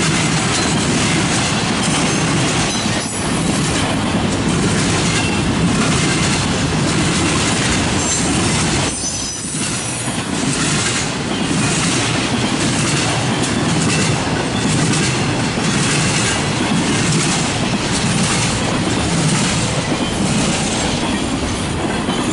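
Empty flatcars of a Norfolk Southern freight train rolling past, wheels clicking in a steady rhythm, with brief high-pitched wheel squeals about eight seconds in. The noise thins near the end as the last car goes by.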